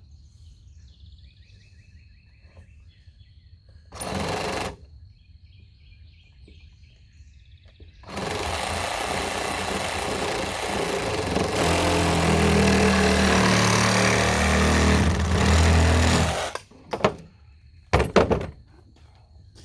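A power tool briefly triggered, then running for about eight seconds, its sound deepening partway through as it works into PVC pipe; two sharp knocks follow near the end.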